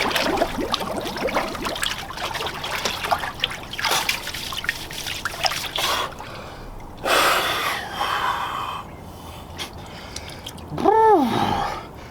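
Water sloshing and trickling in an ice-bath cold plunge tub as a person settles into the near-freezing water. A loud breath out comes about seven seconds in, and near the end a short voiced groan rises and falls in pitch, a reaction to the cold.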